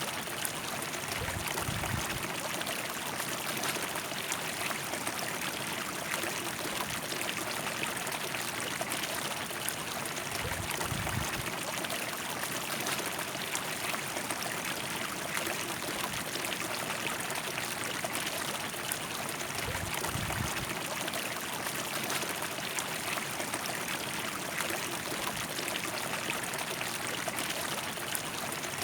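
River water rushing over rocks in a steady, even flow. Brief low rumbles come through three times, about ten seconds apart.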